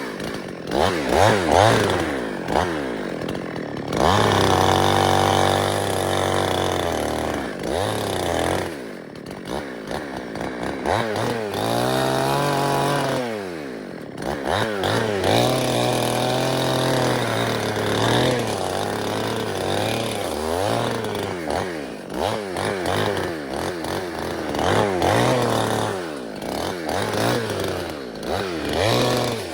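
Two-stroke chainsaw running hard while cutting wood, its pitch rising and falling over and over as it revs and bogs in the cut; a little under halfway it drops away sharply, then revs back up.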